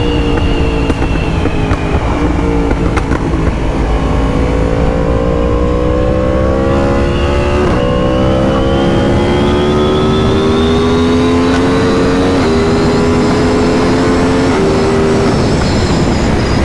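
Yamaha MT-10 with an Akrapovic exhaust, its crossplane inline-four running under load while riding. The engine note climbs slowly and drops suddenly three times at upshifts, over wind rumble on the microphone.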